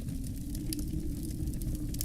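Wood fire crackling, with frequent irregular sharp pops, over a steady low rumble of wind.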